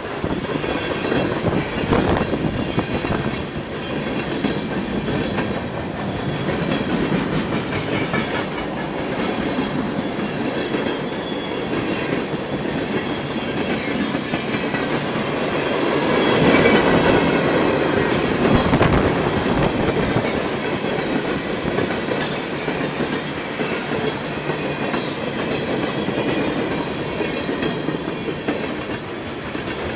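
A train's cars rolling past, their steel wheels clicking over the rail joints in a steady clickety-clack, growing a little louder just past the middle.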